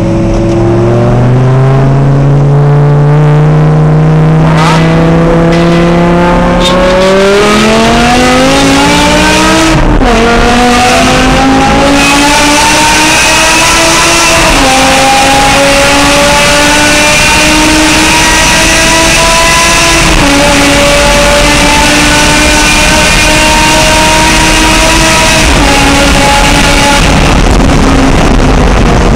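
BMW M6 with a KSG aftermarket exhaust accelerating hard through the gears inside a tunnel. The engine note climbs steeply for about ten seconds, then drops at upshifts about ten, fourteen, twenty and twenty-five seconds in, rising again between them.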